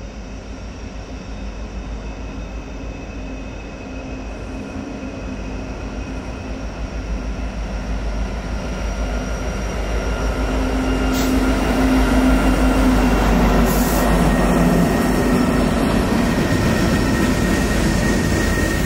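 Diesel locomotives leading a Norfolk Southern freight train approach and pass close by, their engines' steady drone and low rumble growing louder over the first twelve seconds or so, then holding as the units go by.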